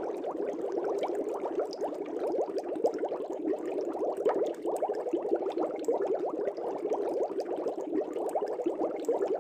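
Air bubbles streaming through aquarium water, a dense, steady burble of many small bubbles with faint pops and clicks above.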